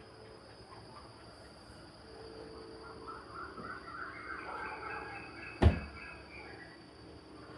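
Faint outdoor ambience with a run of short, wavering bird calls in the middle, and a single sharp knock about five and a half seconds in.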